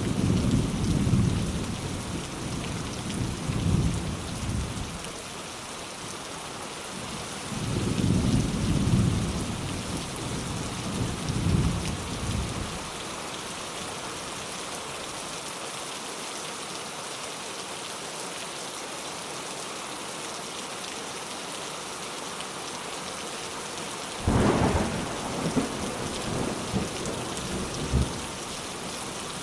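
Steady rain hiss with thunder: low rumbles during the first five seconds and again from about eight to twelve seconds in, then a sharper, louder thunderclap about twenty-four seconds in, followed by a few smaller rumbles.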